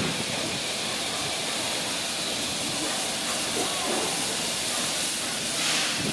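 Steady hiss and running noise of a steam-hauled train, with faint voices in the background and a brief louder hiss near the end.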